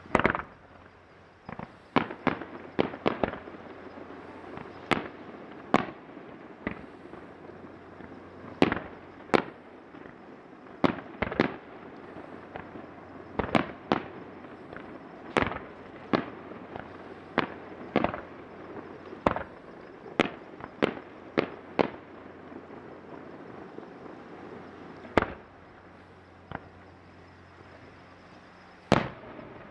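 Aerial firework shells bursting, about thirty sharp bangs in an uneven stream, some in quick clusters of two or three, with a steady rumble between them.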